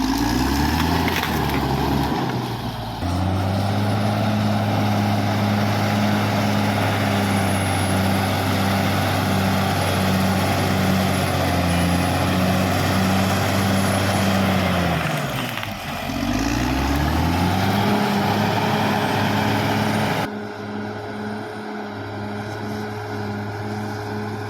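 Caterpillar D6R XL bulldozer's diesel engine running steadily under work. Its revs dip and climb back near the start and again about two-thirds of the way through.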